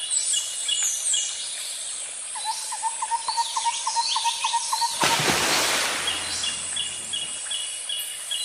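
Birds chirping and calling: quick falling whistles and a short note repeated about four times a second. A rushing noise, like wind, joins about five seconds in and fades out about two and a half seconds later.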